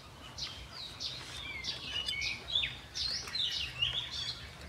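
Small birds chirping: many short, quick, high calls overlapping one another, some sliding down in pitch.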